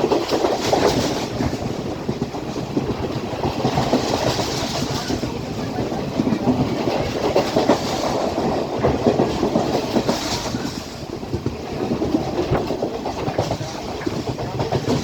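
Class S12 train running along the line: a steady rumble of wheels on rail with frequent clicks over the rail joints.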